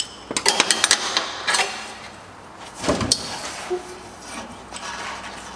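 Metal hand tools and parts clinking and knocking during work under a car: a quick run of clicks in the first second and a half, a heavier knock about three seconds in, then a few lighter taps.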